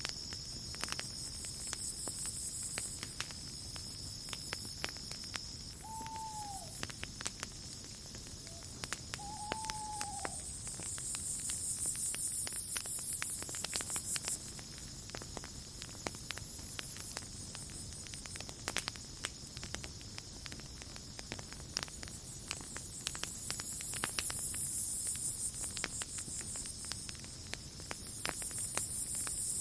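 Campfire crackling with frequent sharp pops over a steady chorus of crickets and insects, whose high trilling swells and fades. Two short calls that rise and then fall come about six and ten seconds in.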